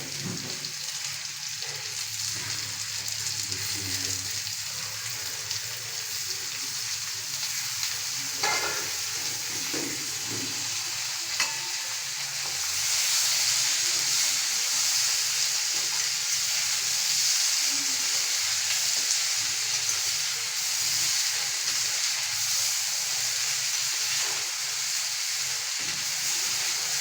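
Potatoes frying in hot oil in a pan: a steady sizzle, with a few knocks from stirring. The sizzle grows louder about halfway through.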